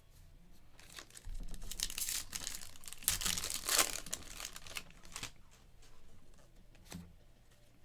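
Foil trading card pack wrapper being torn open and crinkled, a run of crackling from about a second in to about five seconds in, followed by a single sharp click near the end.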